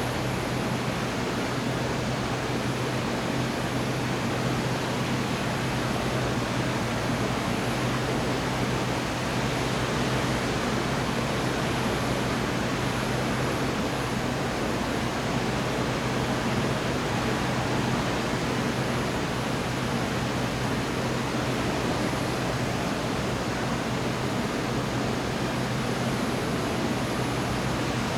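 Steady rushing noise at an even level with a constant low hum underneath; no thunderclaps or other sudden sounds.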